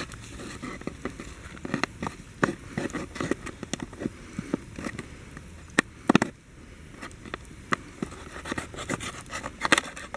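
A plastic PET bottle being cut open to free the rice cooked inside it: a run of irregular scrapes and sharp clicks from the plastic.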